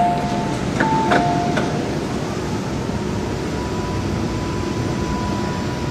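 Two-note chime, high then low, sounding twice in quick succession inside an MTR Kwun Tong Line M-Train, with a few sharp clicks around it. After that comes the carriage's steady running noise with a faint level whine.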